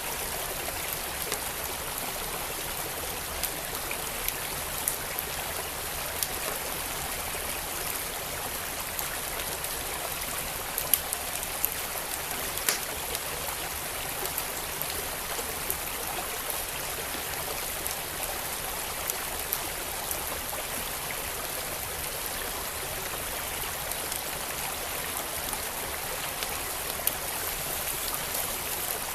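A stream flowing steadily, with the sharp crackles and pops of a burning wood fire scattered irregularly over it.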